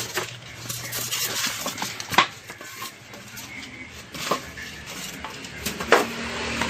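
Scattered clatter of hard objects being handled, with several sharp knocks; the loudest come about two, four and six seconds in.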